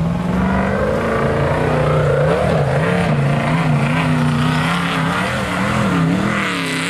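Nissan vehicle's engine and exhaust running and being blipped. The pitch rises and falls in short repeated swells, with a stronger rev near the end.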